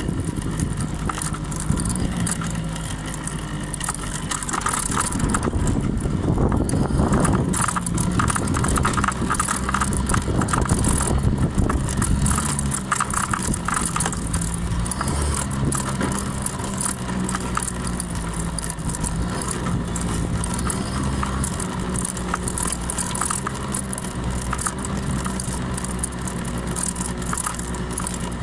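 Honda 50 cc scooter engine running under way, with wind rushing past the microphone; the engine and wind grow louder for several seconds about five seconds in, then settle.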